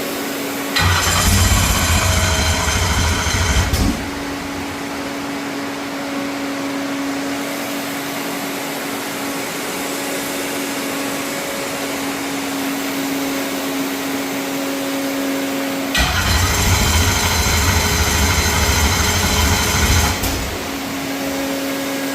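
A steady electric motor whine, with two louder stretches of low mechanical running: one of about three seconds, starting about a second in, and one of about four seconds, starting about sixteen seconds in.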